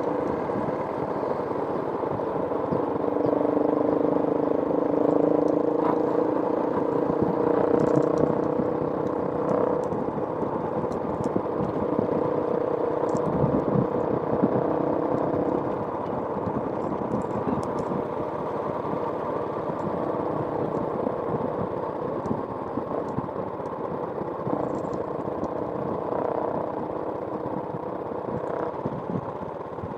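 A motor vehicle engine running steadily, its hum shifting a little in pitch and getting slightly quieter about halfway through.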